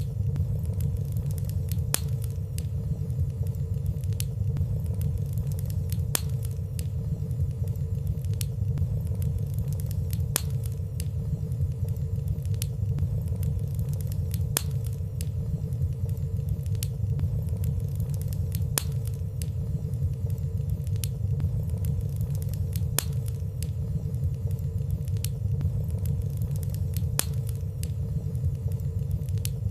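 Fireplace fire burning softly: a steady low rumble with light crackling ticks every few seconds and no loud pops.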